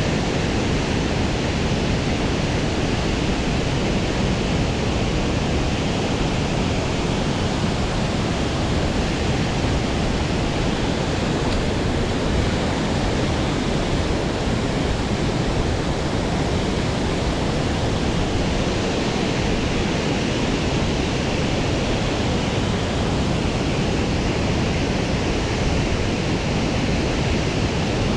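Steady rush of water pouring over a large weir dam on a mountain trout stream.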